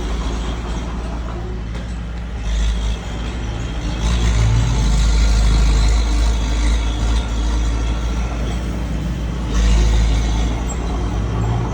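Heavy truck's diesel engine running steadily with a deep rumble, growing louder a few times as it works.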